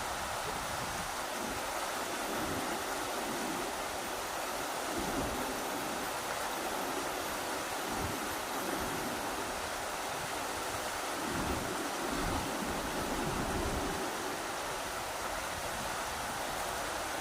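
Rushing river water running steadily, with occasional low rumbles of wind buffeting the microphone.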